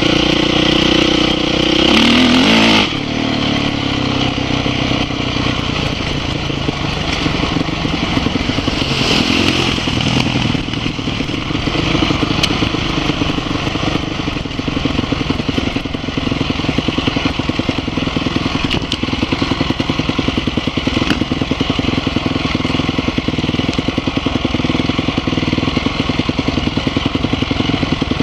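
Dirt bike engine running under way, heard from on board: revs climb for the first couple of seconds and drop about three seconds in, then it runs on at a steady pace with fine, regular firing pulses.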